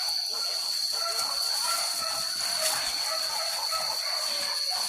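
Steady outdoor hiss with one constant high-pitched whine, like insects droning in forest undergrowth.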